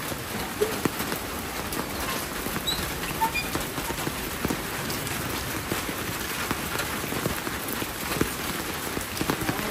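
Heavy rain falling steadily, with many scattered sharp drop hits.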